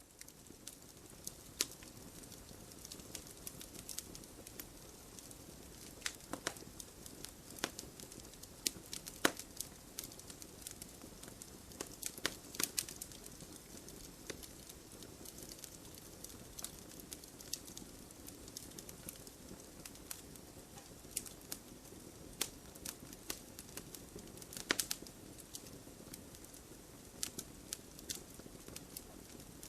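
Wood fire burning in a fireplace: a steady soft hiss of flames with irregular crackles and sharp pops from the burning logs, a few pops much louder than the rest, the loudest about nine seconds in.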